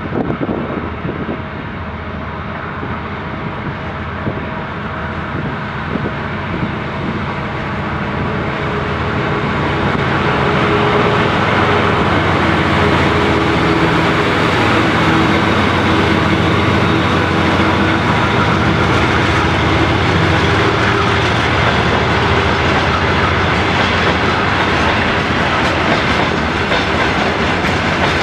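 A GE C36-7i diesel-electric locomotive pulls a freight train away. Its V16 diesel engine drones, growing louder as it approaches over the first ten seconds and loudest as it passes. After that the freight wagons roll by with steady wheel clatter over the rail joints.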